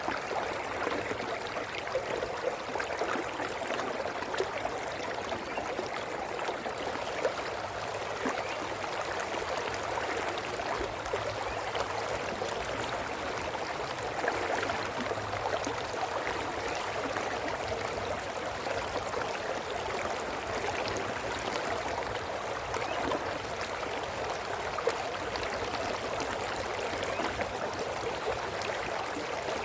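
A small brook flowing over stones, a steady babbling and trickling of water with small splashes flickering through it.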